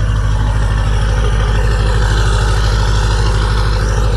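LB7 Duramax 6.6-litre V8 turbodiesel idling shortly after a cold start, loud through a 4-inch straight-pipe exhaust with fast, even exhaust pulses.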